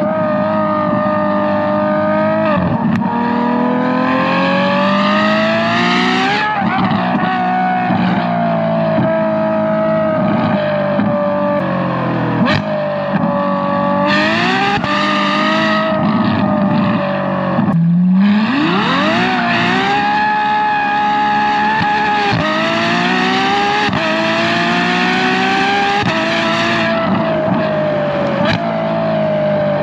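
Ferrari F12 Berlinetta's V12 heard through a valved aftermarket exhaust with a free-flow X-pipe, close to the exhaust, accelerating hard through the gears. The engine note climbs in pitch and drops abruptly at each upshift, several times over. About two-thirds of the way through it falls to low revs and then sweeps steeply back up.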